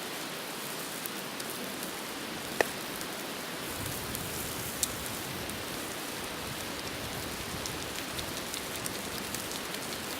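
Pork chops sizzling on a grill over a wood fire: a steady hiss with scattered sharp pops, the loudest about two and a half seconds in.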